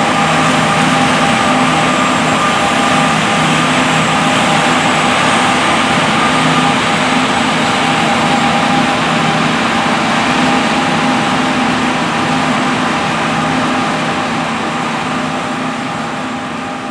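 John Deere S790 combine harvester running steadily under load in the field: a constant engine drone with a steady high whine. The sound fades out near the end.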